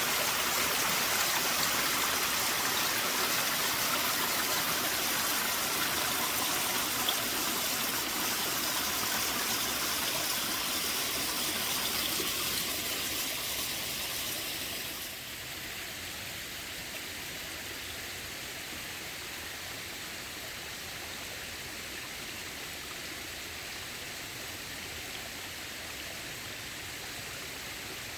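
Small waterfall running with a rather light flow: a steady, gentle rush of falling and splashing water. About halfway through it becomes slightly quieter and less hissy.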